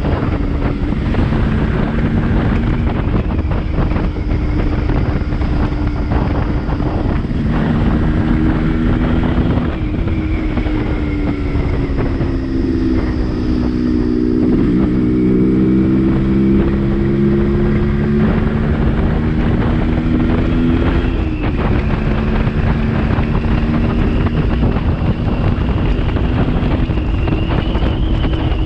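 Yamaha RX135's single-cylinder two-stroke engine running under way, its pitch rising and falling several times as the rider works the throttle and gears.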